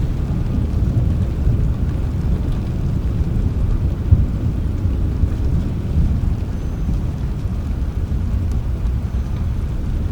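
Thunder rumbling low and continuously over rain, with a brief sharper peak about four seconds in.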